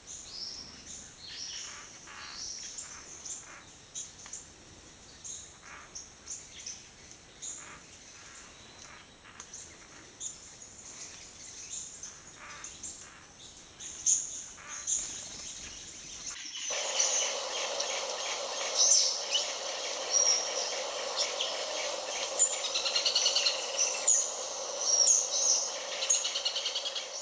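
Many short bird chirps and calls over a faint, steady high tone. About 16 seconds in the sound cuts abruptly to a louder, denser chorus of calls.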